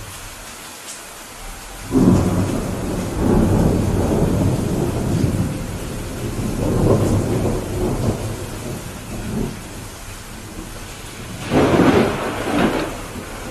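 Steady rain hissing while thunder rolls in: a low rumble breaks in suddenly about two seconds in and rolls on for several seconds, then a second, sharper clap and rumble comes near the end.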